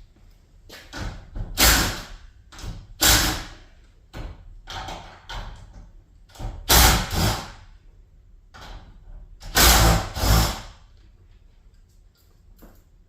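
Metal garage door parts being handled during removal: four loud noisy clatters, each about half a second long, with quieter knocks between them.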